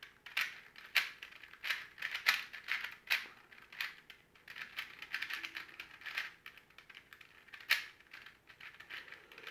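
Plastic twisty-puzzle cube being turned quickly by hand: irregular clicking and clacking of the pieces, a few turns a second.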